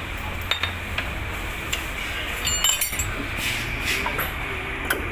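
Metal tools and parts clinking during motorcycle engine work: about half a dozen light metallic clicks and taps, a few with a brief ring, over a steady low hum.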